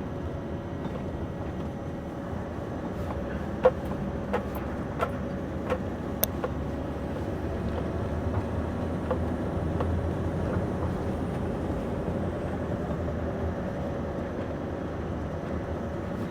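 Scania V8 truck heard from inside the cab, its engine and road noise running steadily. A handful of sharp knocks and rattles come between about three and six and a half seconds in, the first the loudest.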